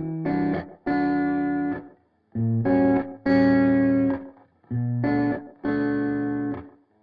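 Background song's instrumental break: electric guitar playing held chords in short separated phrases.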